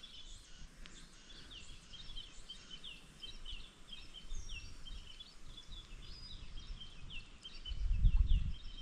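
Birds chirping, many short falling notes repeating over a faint background hiss. A low rumble comes near the end.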